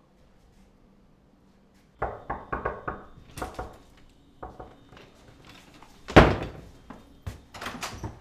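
Near silence, then from about two seconds in a run of knocks and thuds at a door: a quick cluster of raps, then heavier thumps, the loudest about six seconds in, as the door is worked and opened.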